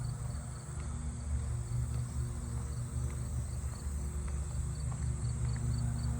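Lawn mower engine running steadily. Crickets or other insects sound over it: a steady high trill and a row of short regular chirps.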